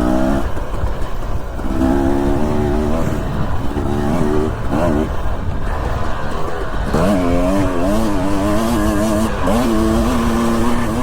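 Dirt bike engine running while riding, its pitch rising and falling as the throttle is opened and closed, with two sharp revs up about seven and nine and a half seconds in. A constant low rumble runs underneath.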